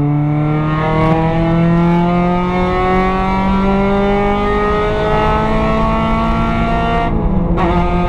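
Spec Miata race car's four-cylinder engine heard from inside the cockpit, pulling hard under full throttle with its pitch rising steadily as the car gains speed. About seven seconds in the note drops sharply for an upshift, then picks up again at a lower pitch.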